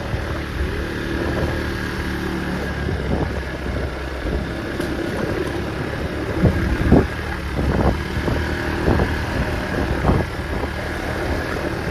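A small vehicle engine running steadily while under way, with a low hum and wind noise. Several sharp thumps or knocks come in the second half.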